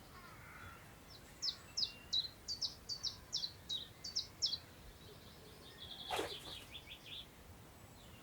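A songbird singing: a series of about ten sharp, high notes, each sweeping downward, over roughly three seconds, then a quicker run of shorter notes a second or so later. One brief click sounds during the second run, over a faint background hiss of wind in long grass.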